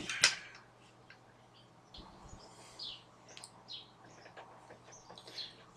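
Faint, scattered high chirps of small birds in the background, over a low steady hum, with a soft knock or two near the start and about two seconds in.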